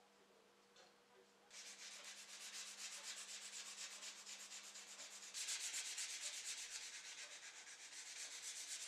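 Sandpaper rubbing over a dried air-dry clay piece in quick back-and-forth strokes, several a second. It starts about a second and a half in and gets louder a few seconds later.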